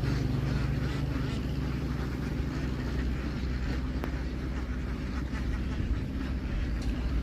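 An engine running steadily with a low drone, and the chatter of a large flock of ducks mixed in.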